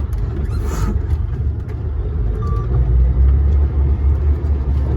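DAF dump truck heard from its cab while driving on a rough sand track: a heavy, steady engine and road rumble that grows stronger about three seconds in, with a brief hiss about a second in.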